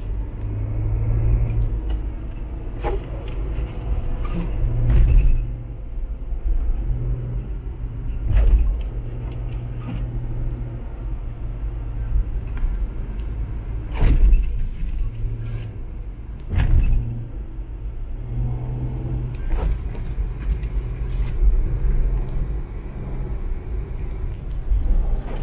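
Inside a car's cabin while driving on a snowy road: a steady low engine and road rumble, with a few short knocks at irregular intervals.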